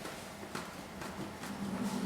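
A few faint clicks and light knocks of a plastic interior trim piece being handled and worked loose.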